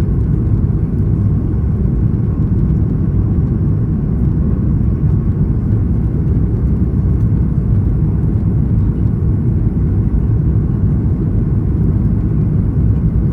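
Steady low rumble inside the cabin of a Boeing 737 MAX 8, heard from a window seat, with no sudden events.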